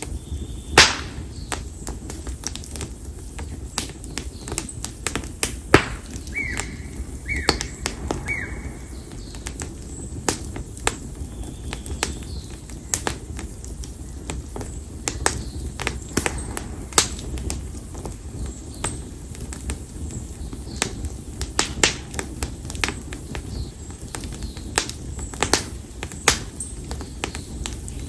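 Campfire of split konara (Japanese oak) firewood crackling, with irregular sharp pops and snaps over a low steady rumble of the flames. This wood burns with a lively crackle. Three short high chirps come about six to eight seconds in.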